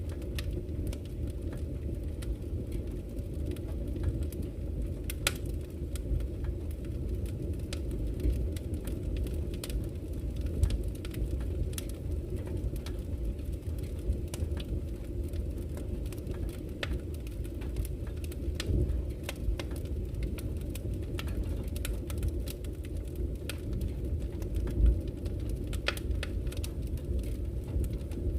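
Campfire crackling, with frequent small sharp snaps and pops over a steady low rush of flowing river water.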